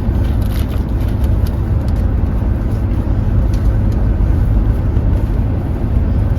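Steady low road rumble of a moving car heard from inside the cabin, with a few faint clicks over it.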